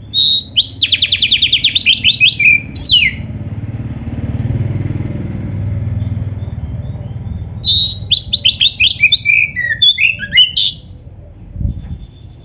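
Oriental magpie-robin (kacer) singing in two loud bursts of rapid repeated whistled notes, each a fast run followed by sliding, varied phrases. A low rumble swells underneath in the pause between the bursts.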